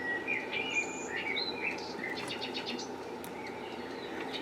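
Bird chirping in short, high notes over a steady low hiss, with a quick run of faint clicks in the middle.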